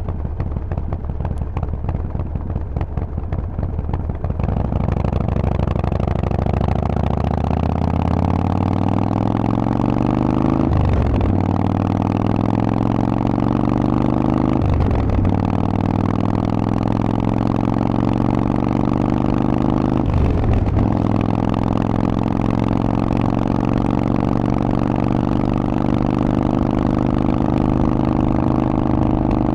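Harley-Davidson Forty-Eight's 1200 cc air-cooled V-twin through a Vance & Hines exhaust, pulling away under throttle. The pitch rises through the gears and dips at three upshifts, about eleven, fifteen and twenty seconds in, then settles into a steady cruise.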